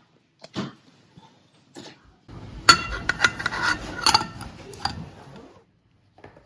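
Kitchen dishes and utensils clinking and clattering: a couple of single knocks, then about three seconds of busy clatter with sharp ringing clinks.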